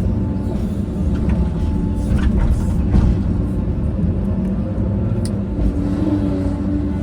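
Diesel engine of a heavy earthmoving machine running steadily, with a few brief knocks over it, one sharp one about five seconds in.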